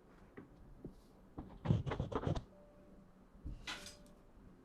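Close-microphone ASMR trigger sounds: a quick run of soft knocks and thumps about a second and a half in, then a short rustle near the end.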